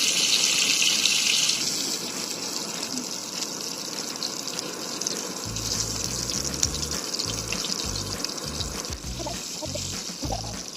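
Chicken pieces sizzling and crackling in hot butter and oil in a pan, loudest for the first couple of seconds and then a steady, quieter sizzle. Background music with a low beat comes in about halfway.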